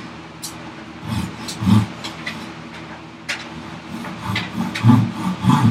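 Hand tools working a wooden vise chop: irregular scraping and knocking strokes, with a few heavier thuds near the start and near the end, over a steady low hum.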